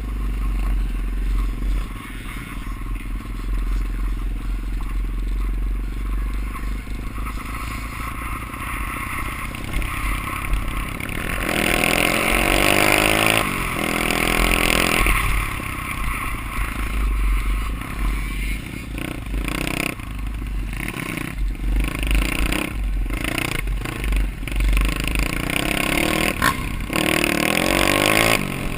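Off-road motorcycle engine running, revving up harder around the middle and again near the end, over a constant heavy low rumble.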